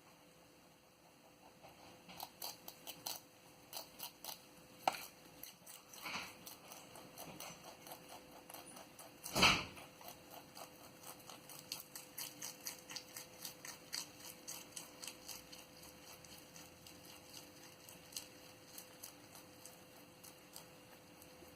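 Pet rabbit chewing fresh parsley: quick, faint crunching clicks, several a second, starting about two seconds in and going on with short pauses. One louder knock about nine and a half seconds in.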